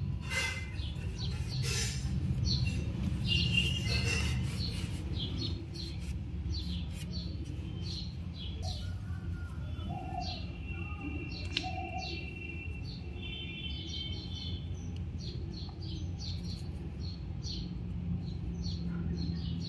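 Small birds chirping again and again, with a few short trills, over a steady low hum. A few soft handling knocks and rustles come in the first few seconds.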